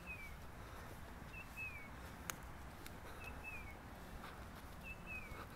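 A songbird calling four times, each call a short high note followed by a falling slur, over faint low outdoor rumble. A few faint ticks and one sharp click just past two seconds in.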